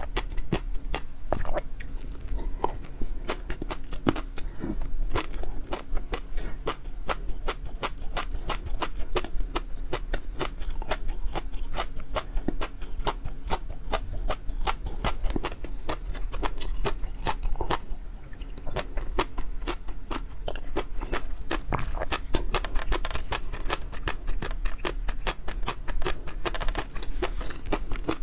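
Close-miked chewing and biting, a dense run of crisp, wet mouth clicks and crunches that goes on without a break.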